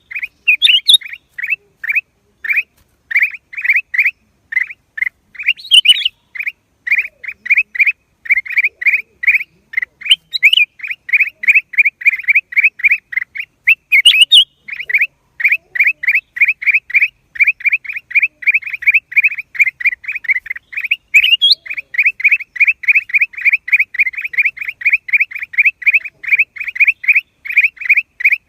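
Black-crested bulbul calling in a long, unbroken run of short, downward-slurred notes, about three a second, with a few higher, sharper calls scattered through it.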